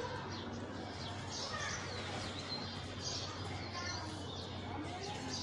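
Many small birds chirping continuously, with short quick chirps overlapping, over a steady low hum.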